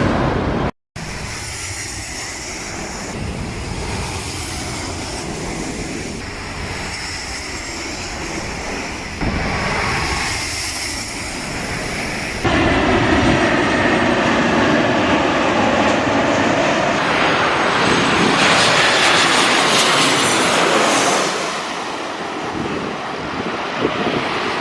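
Jet airliner engines running with a loud, steady rush as a plane goes by, a faint high whine bending in pitch near the loudest part. The sound breaks off about a second in and jumps in level twice where clips are joined.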